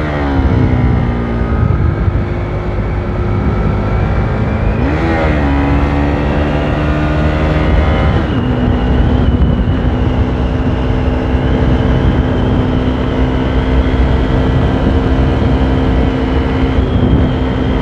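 Motorcycle engine running under way, its pitch swinging up and down a few times in the first eight seconds as the throttle and gears change, then holding a steady cruising note, with wind rumble on the microphone.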